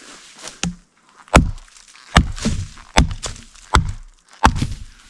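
Five heavy blows of a tool striking wood, one about every three quarters of a second, each a sharp crack with a deep thud.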